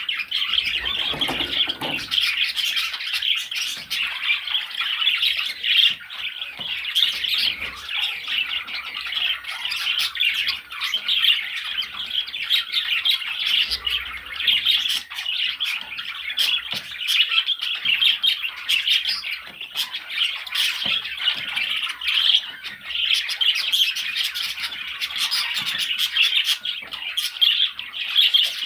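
Budgerigars chattering and squawking without a break: a dense, high warbling full of quick clicks and chirps.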